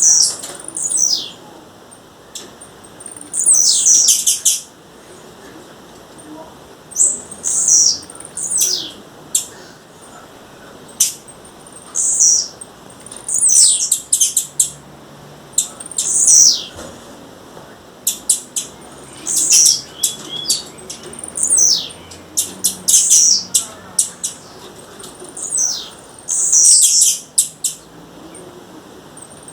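Blue-black grassquit calling: a series of short, high-pitched calls, each sweeping downward in pitch, repeated every second or two. Sharp clicks come between the calls.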